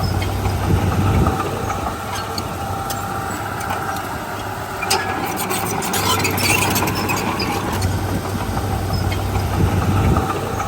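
Diesel engine of a Komatsu D31P crawler bulldozer running steadily, louder at the start and again from about six to ten seconds in, with a run of metallic clanks about five to seven seconds in.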